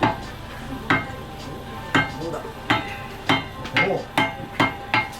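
Repeated metal-on-metal strikes, each with a short ringing tone, coming about once a second and then faster toward the end.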